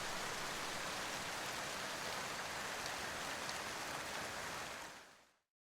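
Steady rain falling, an even hiss with a few faint drop ticks, that fades out about five seconds in.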